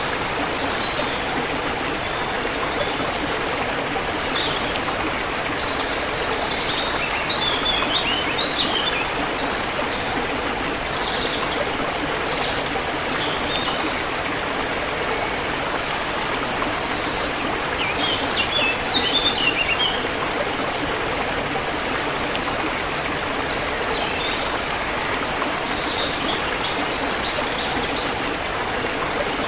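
Steady rushing of a forest stream, with small birds chirping and trilling over it in scattered bouts, busiest about a third of the way in, past the middle, and near the end.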